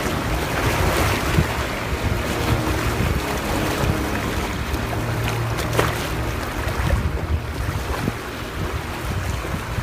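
Sea waves surging and washing, with strong wind buffeting the microphone and a constant low rumble.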